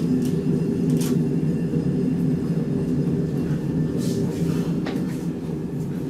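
Diesel railcar running on the rails, heard from inside the car: a steady rumble that slowly fades as the train slows into a station, with a few light clicks.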